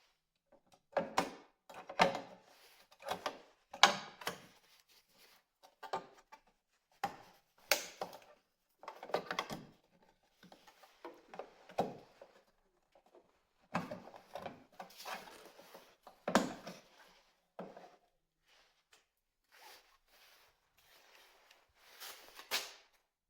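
Hands handling parts and tools during a repair: irregular knocks, clicks and rustling clatter in short bursts, with brief pauses between them.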